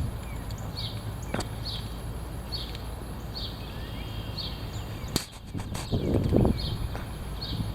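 Strong wind buffeting the microphone in a low, uneven rumble that swells about six seconds in, over a background of regularly repeated high chirps. Two sharp knocks cut through, one early and one about five seconds in.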